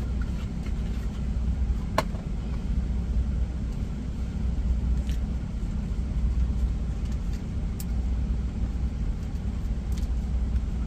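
Steak sizzling in a frying pan, a continuous even hiss, over a steady low rumble. A couple of sharp clicks about two seconds in and again near the end.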